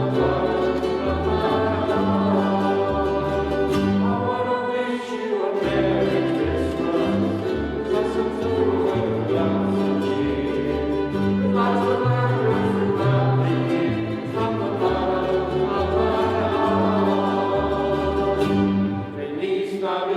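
Choir singing a Christmas carol with orchestral accompaniment, a sing-along song over a moving bass line.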